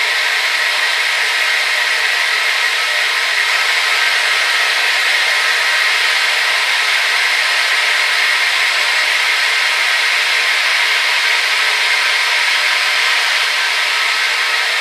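Hair dryer running steadily: a constant rush of blown air with a faint motor hum, strongest in a hiss around the middle-high range.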